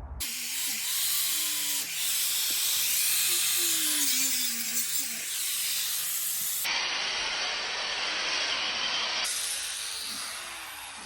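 Angle grinder cutting through a rubber tire mounted on a billet rim, a steady hissing grind. It changes abruptly about two-thirds of the way in and again a few seconds later.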